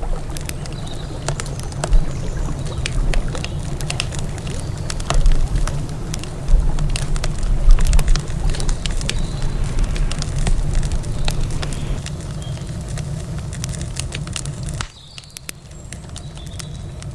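Wood campfire crackling with many sharp pops and snaps, over a steady low rush of river water. The low rush drops away suddenly near the end while the crackling goes on.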